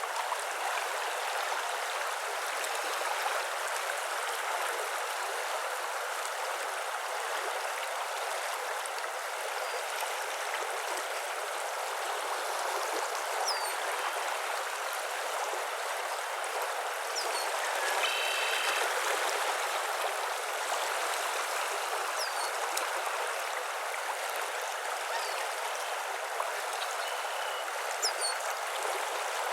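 Steady rush of flowing water, with scattered brief, high bird chirps and a short pitched bird call about two-thirds of the way through.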